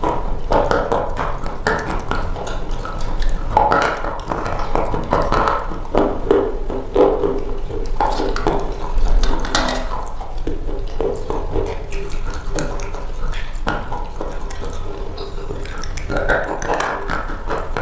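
Close-miked crunching of something brittle: a dense run of crackles and crunches.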